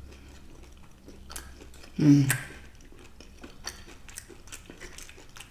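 Close-up chewing and biting of food: soft, scattered wet clicks of the mouth. A short vocal sound comes about two seconds in.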